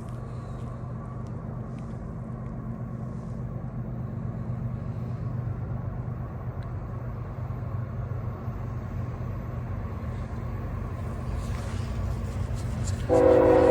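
Low, steady diesel-locomotive rumble from an approaching CSX freight train, slowly growing louder. Near the end a multi-tone locomotive air horn starts suddenly and far louder, holding a steady chord.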